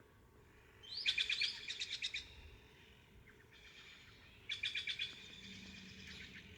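A small bird singing: two phrases of quick trilled notes, the first opening with a short rising whistle about a second in, the second about four and a half seconds in.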